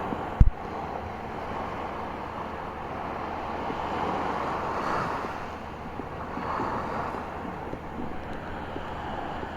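Sea waves washing in, swelling louder twice, with wind buffeting the microphone. A brief low thump about half a second in is the loudest sound.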